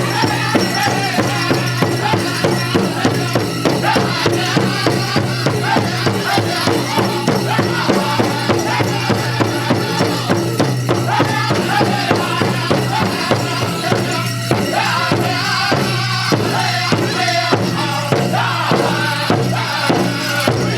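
Powwow drum group singing over a steady, fast drumbeat, with the shaking of dancers' bells.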